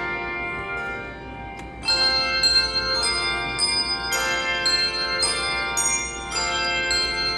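Handbell choir playing a tune: pitched bells ringing and decaying, a softer lull about a second in, then a new phrase of struck notes about two a second from about two seconds in.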